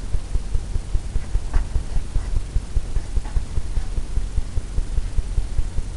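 Bristle brush working paint onto a stretched canvas with short, quick strokes. Each stroke makes a low, dull thump through the canvas, about four or five a second, in a steady throbbing run.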